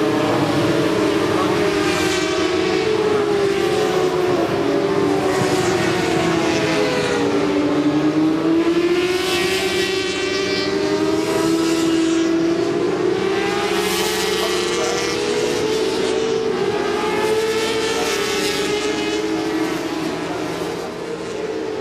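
Several 400 cc supersport racing motorcycles at high revs, their engine notes rising and falling with throttle and gear changes, with a louder pass by every few seconds.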